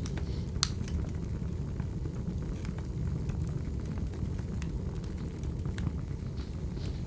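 Wood fire crackling: a steady low rumble of burning logs with scattered sharp pops and snaps, the sharpest just over half a second in.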